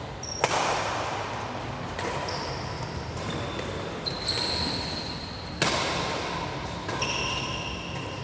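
Badminton rally in an echoing sports hall: sharp racket hits, the loudest about half a second in and again past five seconds, with short high shoe squeaks on the court floor between them.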